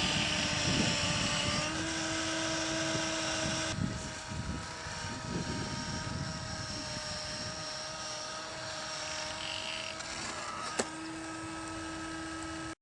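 Jakks Pacific Max tow truck toy's electric motor and gearbox whining steadily as it drives, with the rumble of its wheels over rough ground. The whine shifts slightly at a cut about four seconds in, and a single sharp click comes near the end.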